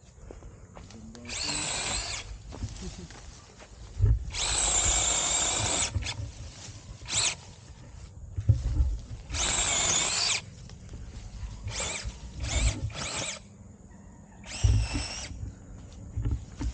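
Battery-powered handheld mini chainsaw running in repeated trigger bursts, its electric motor whining. The bursts range from a split second to nearly two seconds, with three quick blips near the middle.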